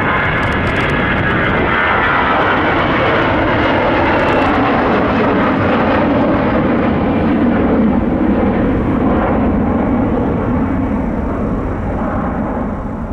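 Airliner jet engines passing close by, a loud steady roar with a high whine in the first few seconds that fades out. The roar dies away near the end.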